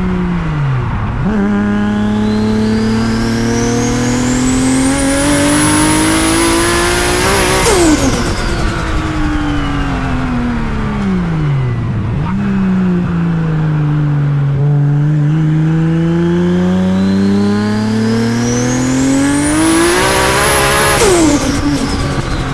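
Big-turbo Toyota Supra's 2JZ inline-six pulling hard twice, engine pitch climbing steadily with a rising turbo whistle. Each pull cuts off suddenly as the throttle lifts, once about eight seconds in and again near the end.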